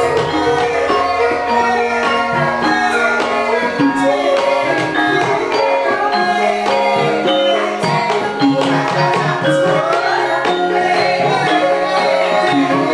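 Javanese gamelan ensemble playing, with kendang hand-drum strokes over ringing bronze metallophone and gong tones.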